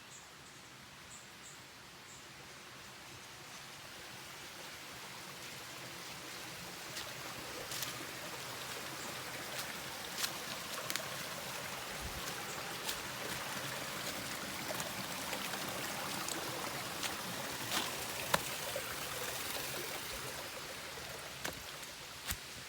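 Water rushing and cascading over rocks in a forest stream, growing louder over the first several seconds and then holding steady, with scattered sharp clicks over it.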